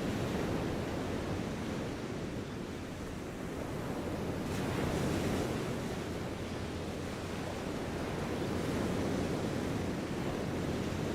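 Steady outdoor ambient noise, a low rumble that swells and eases every few seconds, with no distinct events standing out.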